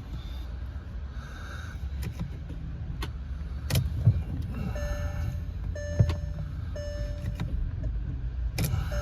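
Car warning chime beeping three times, each beep short and about a second apart, over a steady low rumble with a few clicks.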